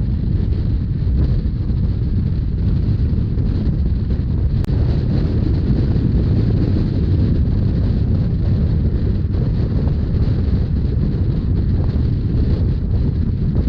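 Steady wind rumble on the microphone over the running noise of a moving Rhaetian Railway train.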